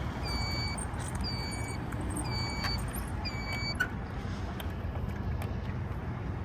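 A car's electronic warning beeper sounding about once a second, four short beeps that stop a little past halfway, over a steady low rumble of the car.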